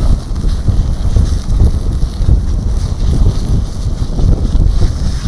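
Strong wind buffeting the microphone in uneven gusts, a heavy low rumble.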